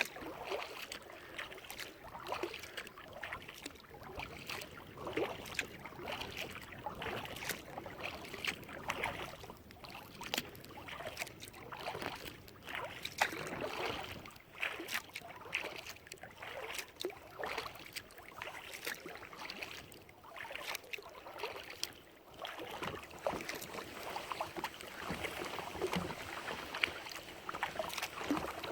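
Kayak paddling: a paddle dipping and water splashing and dripping, rising and falling with each stroke.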